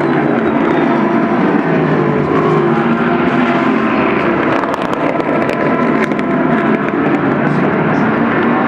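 Several endurance race cars' engines running at speed on the track, overlapping, their pitch rising and falling as the cars pass and shift gears.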